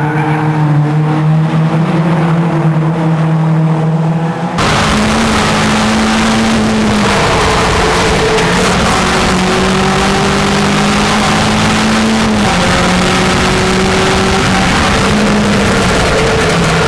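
Race car engines running hard at circuit speed. About four and a half seconds in, the sound abruptly gets fuller and noisier, and a held engine note then drops in pitch a few times.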